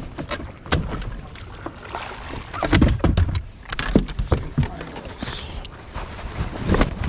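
Knocking and handling noises aboard a bass fishing boat: irregular knocks, taps and clicks over a low rumble, louder about three and four seconds in.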